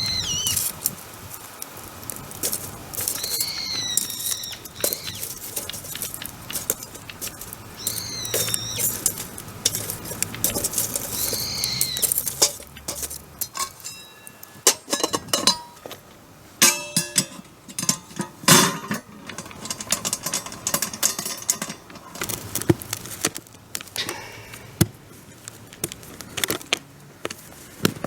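A bird calls again and again, a wavering high call about every four seconds. In the second half come many sharp clinks and knocks of metal cookware or utensils.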